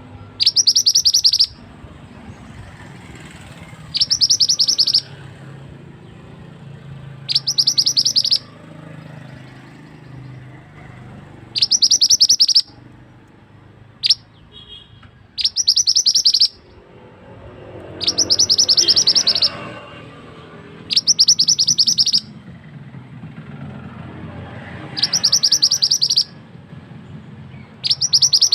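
Mantenan bird singing in repeated one-second bursts of rapid, high, sharp notes, about every three to four seconds, over a steady background of flowing water.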